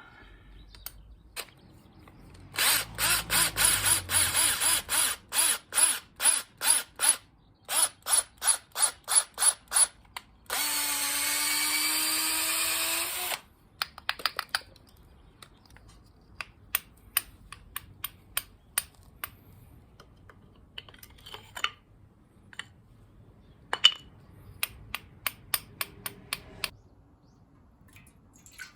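Workshop tool work on the tongs. It starts with runs of quick hand-tool strokes, about four a second. About ten seconds in, an electric drill runs steadily for about three seconds. Then come scattered clicks and another short run of strokes.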